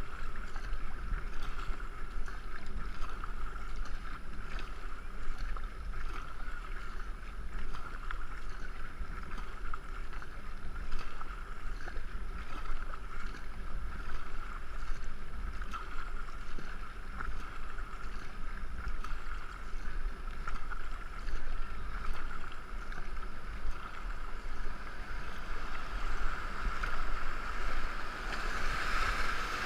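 Two-man racing canoe being paddled down a river: water rushing and splashing steadily past the hull and paddles, over a steady low rumble on the camera microphone.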